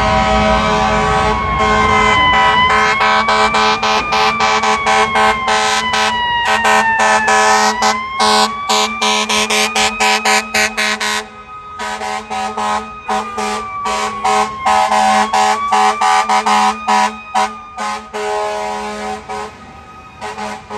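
Fire engine's air horns blasted over and over in quick short bursts, with a siren slowly wailing up and down underneath. Both fade away over the last couple of seconds.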